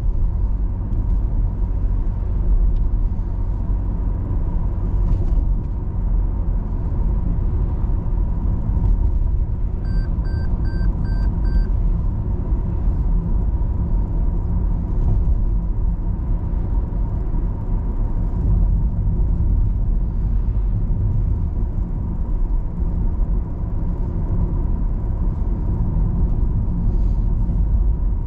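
Car driving along a road: steady engine and tyre rumble with a faint steady whine underneath. About ten seconds in there is a short run of about five quick electronic beeps.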